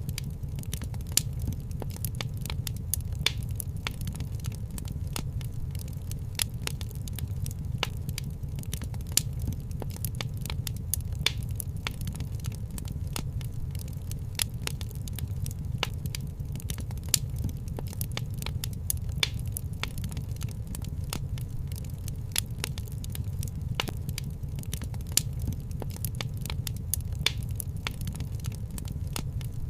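Wood fire crackling in a fireplace: a steady low rumble of the flames with frequent irregular sharp pops and crackles, a few of them louder.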